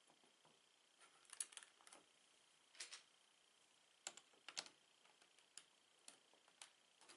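Plastic Lego bricks being handled, giving soft, irregular clicks and rattles. There is a cluster about a second in, another pair near the middle, then scattered small ticks.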